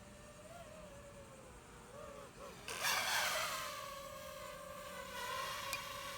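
DJI FPV drone's propellers whining, the pitch wavering up and down with throttle, with a loud rushing burst about three seconds in, after which the whine holds steadier and louder.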